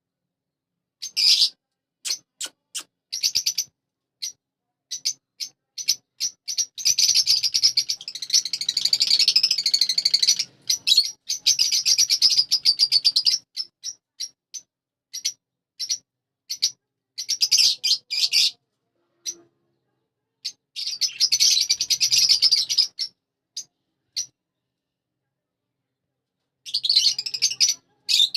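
Budgerigars chattering and warbling in quick high chirps, in bursts of a few seconds broken by short silences: the chatter of contented budgies.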